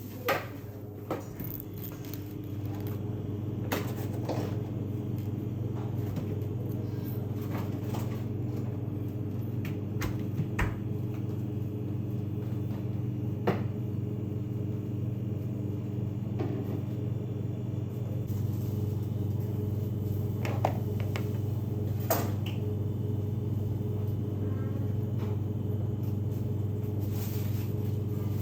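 A steady machine hum that grows louder over the first few seconds and then holds, with scattered light clicks and taps.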